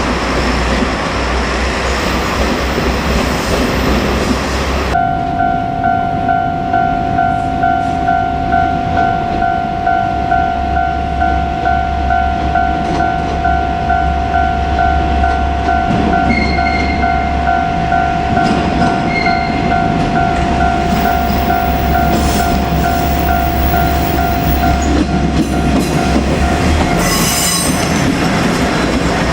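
A diesel railcar train rumbling past, then a Japanese level crossing warning bell ringing in steady rapid pulses for about twenty seconds under the low rumble of the train's engine. Near the end there is a brief high squeal.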